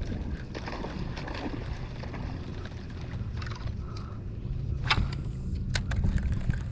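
Wind buffeting the microphone and water moving around a kayak on salt water, a steady low rumble, with a few sharp clicks or taps near the end.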